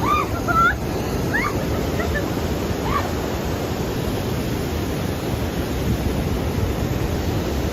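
Steady rush of water with no break. In the first three seconds a few short, high, gliding calls sound over it.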